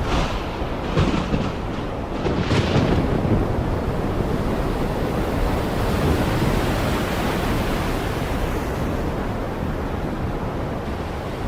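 Heavy rain falling as a dense, steady roar, with a deep low rumble underneath.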